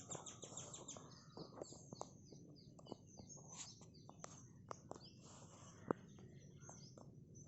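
Small birds chirping faintly, a fast series of short, high, falling chirps, with scattered sharp ticks; the loudest tick comes about six seconds in.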